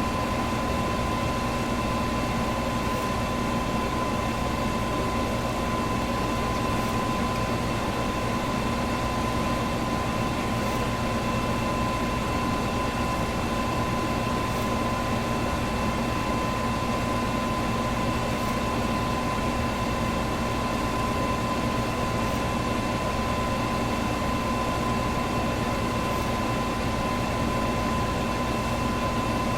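Electric fan running steadily: an even rush of air with a steady hum and a thin whine over it.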